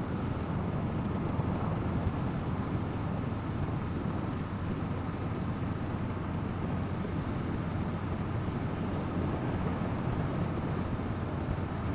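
Wind rushing over the camera's microphone while riding, with the 2017 Honda CB500F's parallel-twin engine running steadily underneath. The wind noise is the dominant sound, holding steady with no gear changes or revving.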